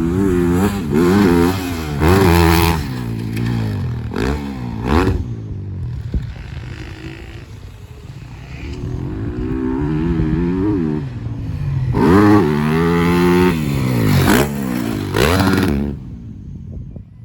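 Motocross bike engine revving hard, the pitch climbing and dropping again and again through gear changes and throttle on and off. It runs quieter in the middle and loud again later on, then fades just before the end.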